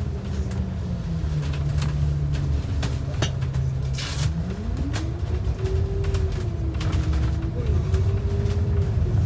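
A transit bus's engine and drivetrain heard from inside the cabin: a low rumble with a whine that holds low, then rises about four and a half seconds in and stays higher as the bus speeds up. Scattered rattles and clicks come from the cabin.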